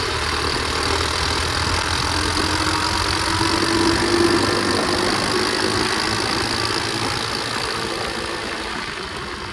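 Flywing pit bike engine running under way, its note swelling a little about four seconds in and then easing off, over a steady hiss of riding noise.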